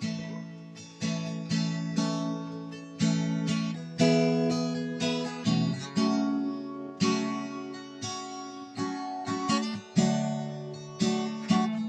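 Acoustic guitar strummed in sustained chords, an instrumental passage of a slow gospel song with no singing.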